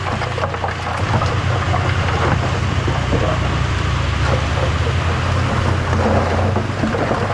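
Heavy diesel engine of a bulldozer running steadily under load, with a dense crackling noise over it; both grow louder about a second in.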